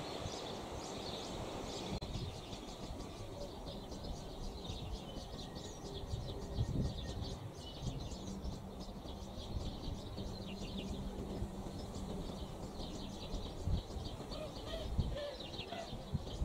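Small birds chirping and singing repeatedly over a low, steady rumble of background noise.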